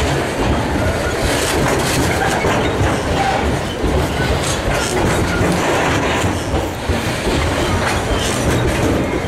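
Freight train of covered hopper wagons rolling past close by: a steady rumble with the wheels clattering over the rail joints.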